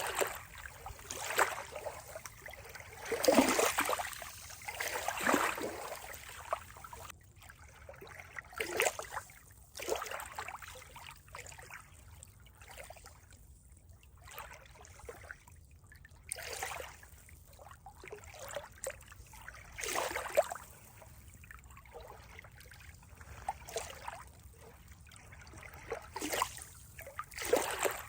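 Water splashing and trickling in uneven surges every few seconds, over a faint steady wash.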